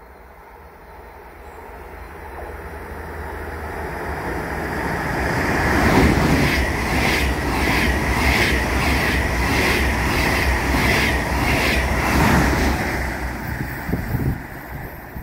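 ICE high-speed train approaching and passing at speed: a rushing rail noise builds steadily, then the passing cars give a loud, regular clatter about twice a second. The sound cuts off sharply near the end.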